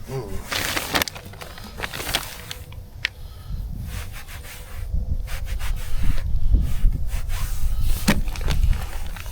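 Knife cutting chicken wings on a cutting board: irregular knocks and scrapes, with a low rumble in the second half.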